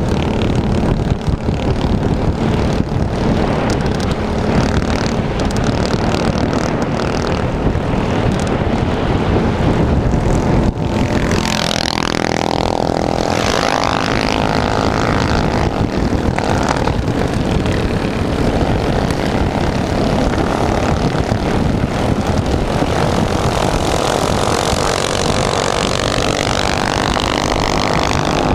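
Small single-cylinder minibike engines running continuously and loud, with the sound sweeping in pitch at times as the engine note shifts.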